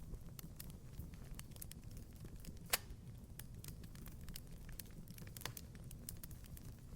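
Wood fire crackling in a fireplace: a steady low rumble with scattered small crackles and one loud pop a little under three seconds in.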